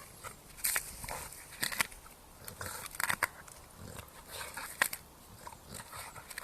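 A dog making sounds close by, with irregular short crackles and clicks.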